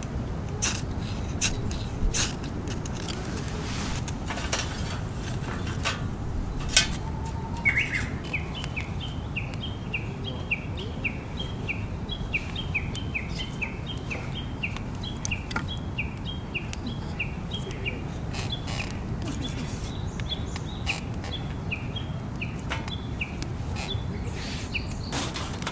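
Bird song: a long run of quick repeated chirping notes, about four a second, starting about eight seconds in and going on nearly to the end. Under it is a steady low rumble of background noise, with scattered sharp clicks, mostly early on.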